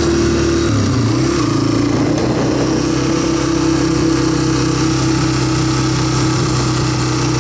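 Small single-cylinder four-stroke dirt bike engine running while being ridden. Its note dips and wavers briefly about a second in, then holds steady.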